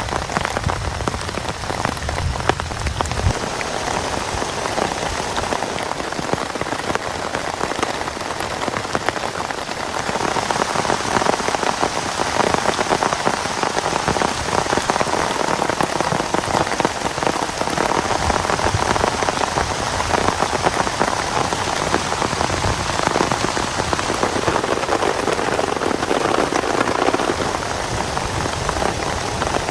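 Heavy rain falling steadily, with dense drops striking a surface close to the microphone. It grows a little heavier about ten seconds in.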